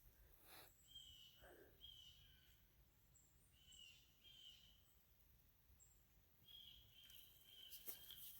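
Faint bird calls: short, clear notes at one pitch, repeated every second or two, with a few brief higher chirps in between.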